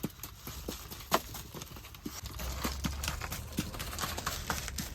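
Open fire crackling and snapping in irregular sharp clicks, with a low steady rumble joining about two seconds in.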